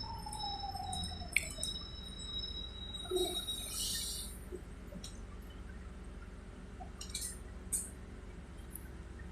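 Electric bus riding, heard from inside: a steady low hum with a motor whine that falls in pitch over the first second and a half as the bus slows. A short hiss about three seconds in, then a few faint clicks.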